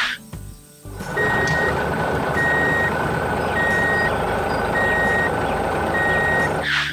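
A truck's reversing alarm beeping five times at an even, slow pace over the steady running of its engine. A short whoosh comes at the start and another near the end.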